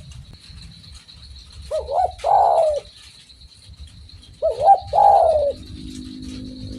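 Spotted dove cooing twice, about two and a half seconds apart. Each call is a couple of quick short notes and then a longer coo.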